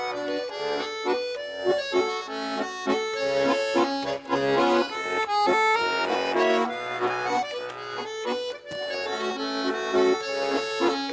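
Russian garmoshka accordion playing a quick instrumental melody over chords: the interlude of a folk song between sung verses.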